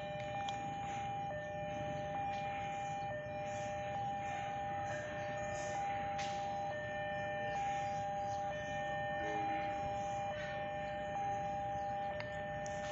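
Railway level-crossing warning alarm ringing: two steady electronic tones, one higher and one lower, pulsing about once a second, the signal that a train is approaching the crossing. Low traffic rumble underneath.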